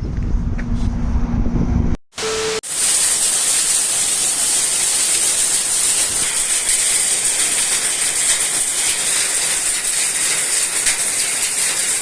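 A heavy downpour of rain and hailstones, a dense steady hiss with fine ticking, begins after a cut about two seconds in. Before the cut there is motorcycle road noise with a low steady hum.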